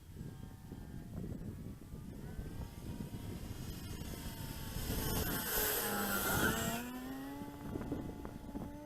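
Electric radio-control model Cessna 170's motor and propeller whine flying past, swelling to its loudest about six seconds in with its pitch bending as it passes, then fading. Wind rumbles on the microphone throughout.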